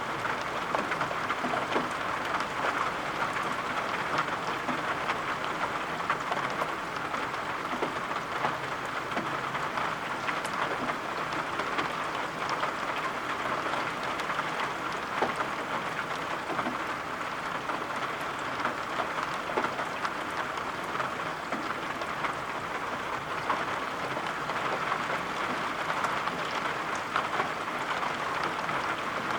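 Steady rain falling: an even hiss sprinkled with scattered sharp taps of drops.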